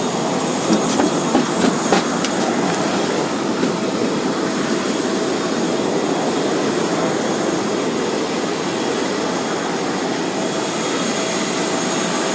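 Boeing 787 jet engines giving a steady, even rush of noise with a faint whine over it, and a few light clicks in the first two seconds.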